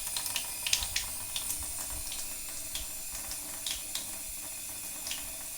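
Tap water running out of a faucet-mounted charcoal filter in a steady stream, with small splashes.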